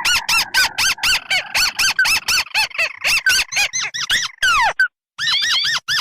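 Bird-lure recording of two crake species calling together: a fast series of short, arching squeaky notes, about five a second, over a fainter trill. Near the end there is a falling note and a brief pause before the notes start again.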